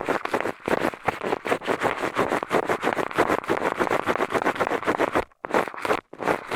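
Eyeglasses used as an ear pick on an ASMR microphone's ear: rapid scraping and rubbing strokes, several a second, with a short break about five seconds in.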